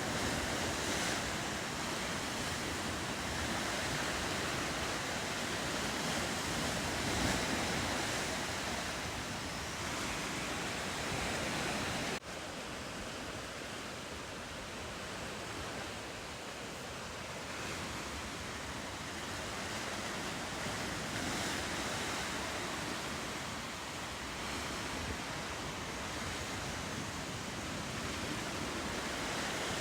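Steady ocean surf washing along a rocky coast, a continuous rushing noise. About twelve seconds in it cuts off abruptly and resumes slightly quieter.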